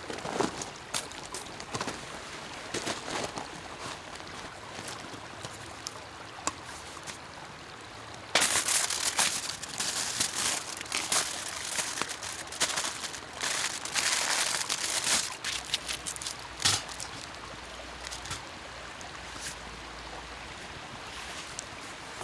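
Loud crinkling and rustling of handled material begins suddenly about eight seconds in and runs for several seconds with many sharp ticks, over a faint background of trickling water and small crackles.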